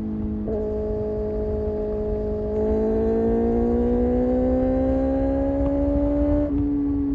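Kawasaki Ninja ZX-6R's inline-four engine running at steady revs. From about two and a half seconds in it climbs slowly in pitch and grows louder as the bike accelerates, and the note changes suddenly near the end. A low rumble of wind noise runs underneath.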